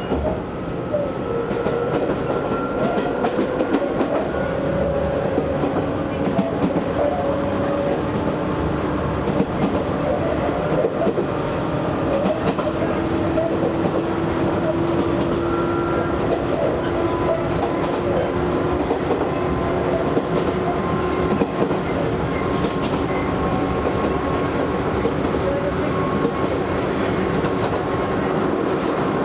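Izu Hakone Railway Series 3000 resistance-controlled electric train heard from inside the car while running. A steady rumble of wheels on rail with clickety-clack over the joints, and traction-motor tones that climb slowly in pitch, then hold steady.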